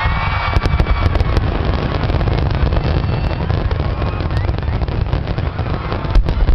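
Aerial fireworks display, with booming shell bursts over a continuous low rumble. A quick run of sharp crackles comes about half a second to a second and a half in, and a louder bang near the end.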